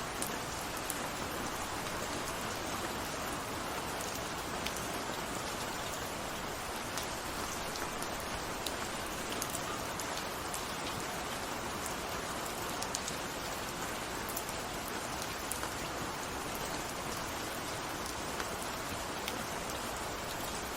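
Steady rain falling, a dense even hiss with scattered drops ticking on a surface.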